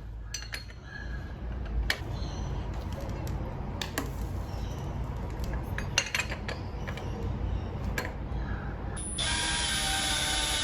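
Workshop hand-tool work: scattered metallic clicks and ratcheting. About nine seconds in, a steady mechanical whir with a fixed pitch starts up and keeps going.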